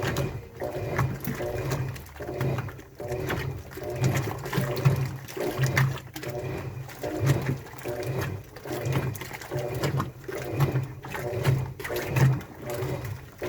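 Washing machine running a wash cycle: a low motor hum with water sloshing in the drum, surging in a rhythm of roughly once a second.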